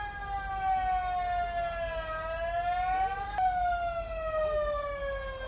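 A high-pitched mechanical whine from the crane's machinery. It slides slowly down in pitch, climbs for about a second partway through, then jumps back up and falls again.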